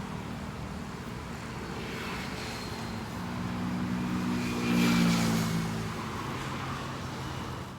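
A motor vehicle's engine humming, growing louder to a peak about five seconds in and then fading, as if it passes close by.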